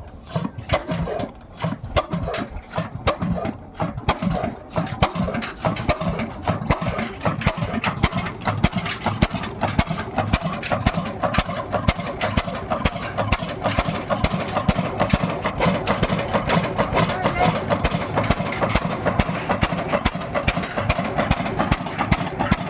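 Diesel engine running just after start-up, each firing a distinct knock. The beats are slow and uneven for the first few seconds, then settle into a steady, quicker idle.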